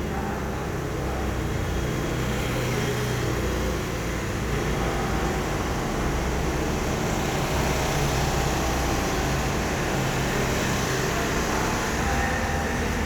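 Steady mechanical rumble with an even hiss over it, holding at one level throughout.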